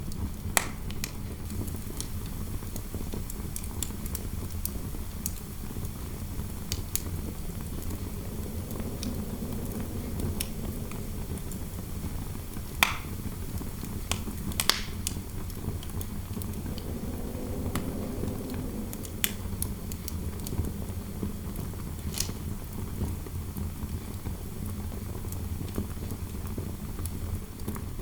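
Fireplace fire crackling, with scattered sharp pops over a steady low rumble of interior wind; the wind swells into a soft howl twice.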